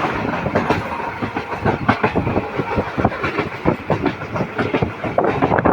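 Moving passenger train: wheels clattering over the rail joints amid a continuous rush of running noise.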